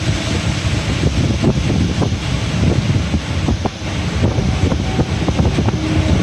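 Wind buffeting the microphone in a steady, rumbling rush with crackling gusts, over the wash of a summer rain shower.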